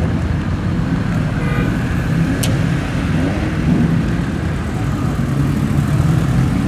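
Car engine and exhaust running steadily at low revs, a deep continuous rumble, with a brief sharp click about two and a half seconds in.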